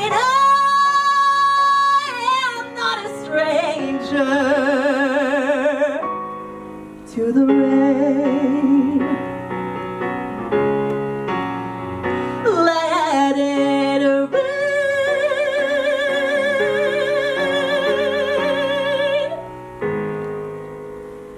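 A female singer with piano accompaniment sings the closing phrases of a musical-theatre ballad, holding a long note with vibrato for about five seconds near the end. The voice then stops and the piano plays on more softly.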